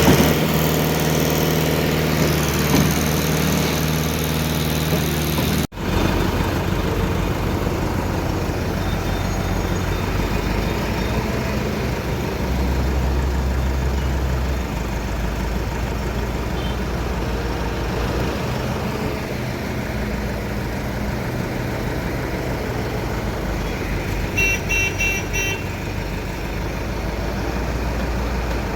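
A large machine's engine runs steadily with a low hum, cut off briefly twice early on. Near the end there is a short run of rapid high beeps, like a horn or warning beeper.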